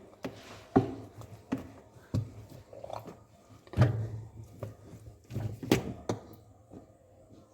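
Irregular light knocks, clicks and handling noises against a refrigerator's plastic interior as pooled water is wiped out with a dry cloth.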